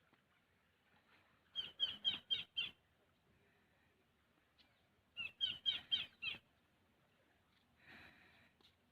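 A bird singing a short phrase of about five quick, sharp chirps. The phrase is given twice, about three and a half seconds apart, with a brief soft hiss near the end.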